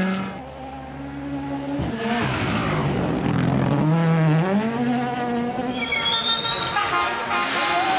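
Rally car engine revving hard on a gravel stage, its pitch climbing and dropping several times through gear changes and lifts off the throttle. A high whine joins in about six seconds in.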